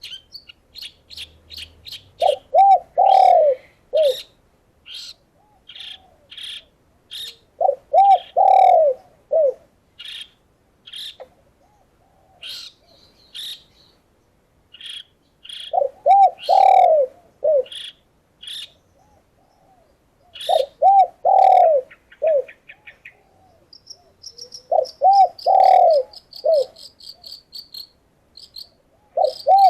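Doves cooing in short repeated phrases every few seconds, over many sharp high chirps from small birds, with a fast high trill running near the end.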